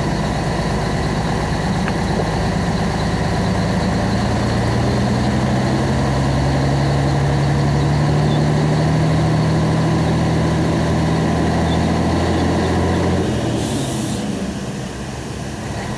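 Diesel engine of a loaded corn-hauling truck, heard from inside the cab, pulling steadily with its note slowly rising. About 13 seconds in the engine eases off and a short hiss of air follows.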